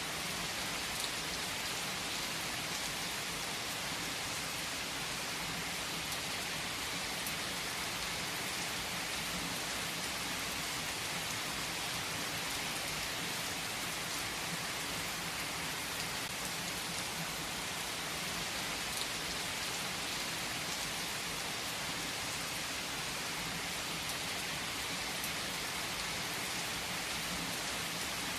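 Steady rain falling, an even hiss with the odd louder drop ticking through it.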